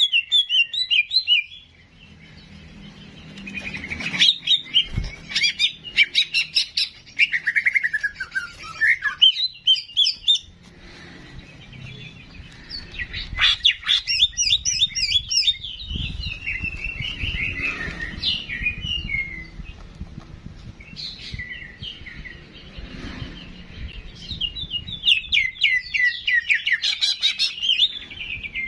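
Songbird song from a 'cicak jenggot' masteran (song-tutor) recording: quick, varied chirps and trills in phrases of a few seconds, with short pauses between them.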